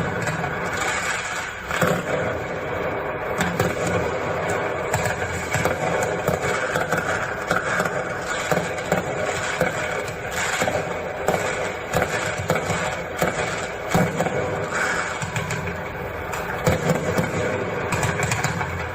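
A 225-shot "Sinister" consumer firework cake firing continuously: a dense, unbroken run of rapid shots and bangs.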